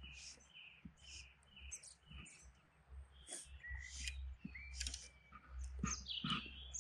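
Small songbirds chirping and singing, with a quick run of short repeated notes near the start and more varied high calls after, over a low steady rumble.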